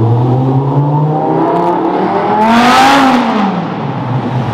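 Audi R8's engine pulling away. About two and a half seconds in it revs up and passes close, its pitch rising and then falling, before fading into traffic noise.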